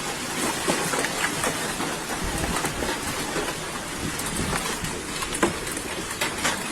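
Hail pelting down hard: a dense hiss of falling ice with many sharp, irregular clacks of stones striking hard surfaces.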